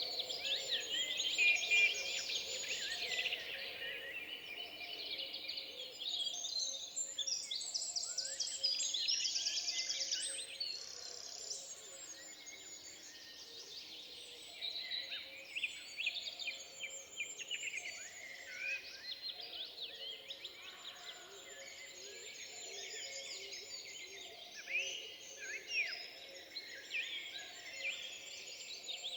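Forest birdsong: several birds singing at once, with dense overlapping chirps, trills and short whistles throughout.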